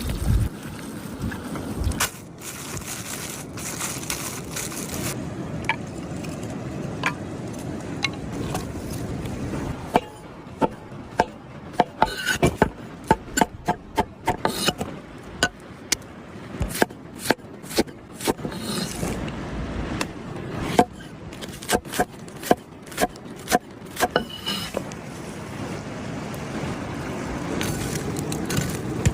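Scraping over a steady low rumble, then a long irregular run of sharp knocks, about one to two a second, through the middle; the steady rumble returns near the end.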